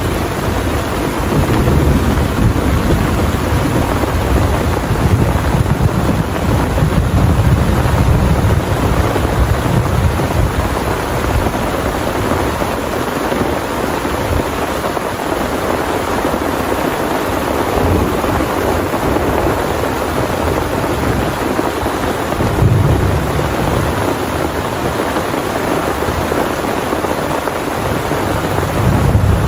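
Heavy rain pouring steadily, with thunder rumbling low through roughly the first ten seconds and again briefly about three-quarters of the way in and near the end.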